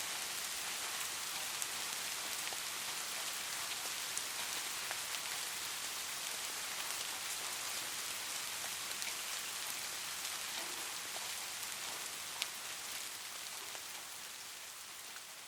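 Light rain falling steadily: an even hiss with scattered sharp drop ticks, fading down over the last couple of seconds.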